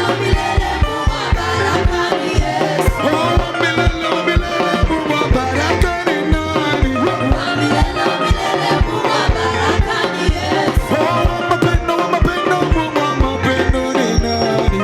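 Church praise and worship music: a band playing with a steady drum and bass beat, with singing over it.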